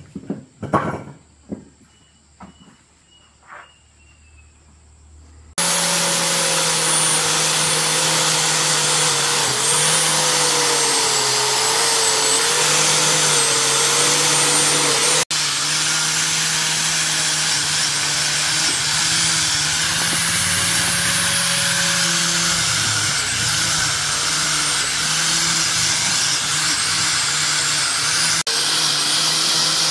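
A few light knocks, then a handheld power tool starts abruptly about five seconds in and runs steadily with a whining hum over hiss.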